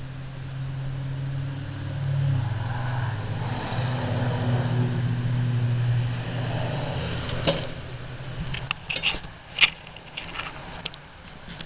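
Dixie Chopper zero-turn mower's engine running with a steady low hum, louder for a few seconds in the middle and dying away about seven seconds in. A series of sharp clicks and knocks follows near the end.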